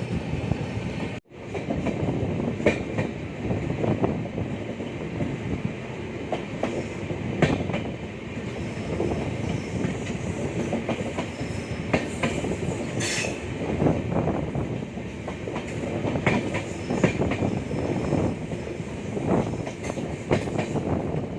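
Express passenger train running at speed, its coach wheels clattering over rail joints in irregular clacks over a steady rumble. The sound cuts out for an instant about a second in.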